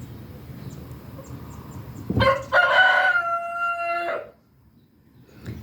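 A rooster crowing once, about two seconds in: a short first note, then a long held one that breaks off. Faint high chirps come before it.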